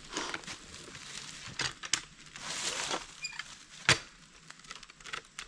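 Scattered shuffling, scraping and knocking of someone working around a large log, with one sharp knock about four seconds in.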